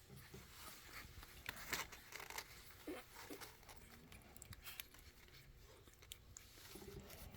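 Newborn American Bully puppies nursing: faint wet suckling clicks and smacks, with a few small squeaks about three seconds in.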